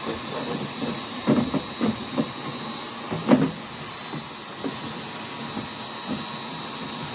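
Vacuum cleaner running through a long, thin flexible lint-hose attachment, a steady hiss with a faint whine, while the hose knocks and scrapes irregularly inside the dryer's lint-trap housing. The loudest knocks come about a second in and about three seconds in.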